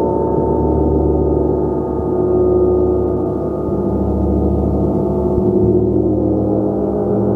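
Gong being played continuously: a dense, sustained wash of many overlapping low tones that swells and ebbs slowly.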